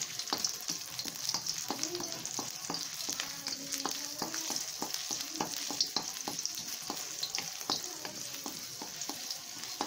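Chopped ginger sizzling in a little sesame oil in an iron kadai, stirred with a wooden spatula that knocks and scrapes against the pan in many irregular clicks.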